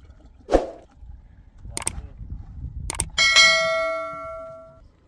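A thump, a few sharp clicks, then a metal object struck once, ringing and fading away over about a second and a half.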